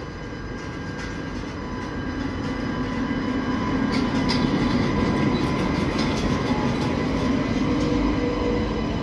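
TGV Lyria double-deck high-speed train pulling out and rolling past at low speed. Its rumble grows louder over the first four seconds or so and then holds steady, with a few steady high tones and a cluster of sharp clicks near the middle.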